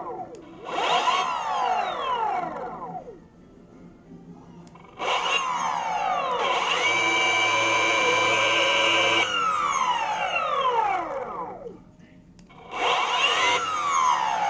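Boosted Mini X electric skateboard motor spinning freely with the drive belts removed, giving the weird whine under test: it rises in pitch as it speeds up, holds steady for a couple of seconds mid-way, and falls as it spins down, several times over with short quiet gaps.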